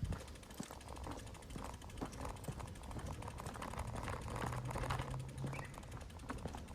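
Bicycle being ridden, its parts rattling and clicking irregularly, with a low steady hum building about four seconds in.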